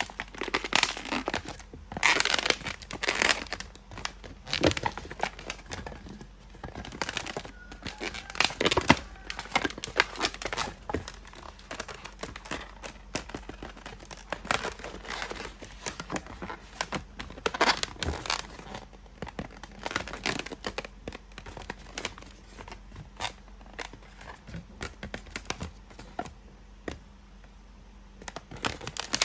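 Latex modelling balloon being handled and twisted, with irregular rubbery rubs, crinkles and brief squeaks in quick bursts, busiest in the first half and sparser toward the end.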